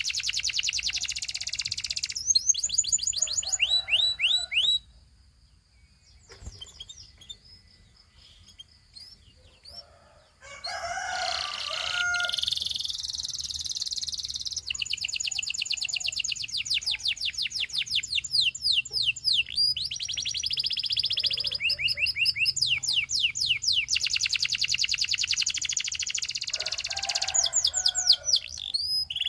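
Domestic canary singing: fast trills of repeated sweeping high notes, rolling from one tour to the next. About five seconds in it breaks off for several seconds, leaving only a few scattered faint notes, then resumes in long continuous rolls.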